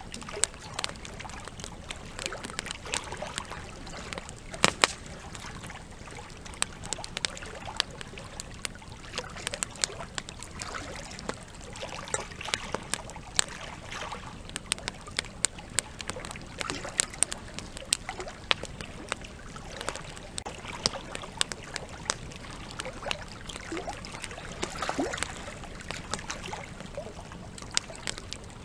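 Wood campfire crackling, with frequent irregular sharp pops, over the steady sound of a river flowing.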